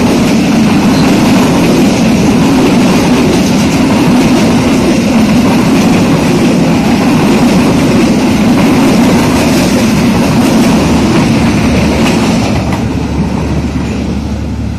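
Passenger train coaches passing at close range, loud, with the steady noise of steel wheels running on the rails. It begins to fade near the end as the train draws away.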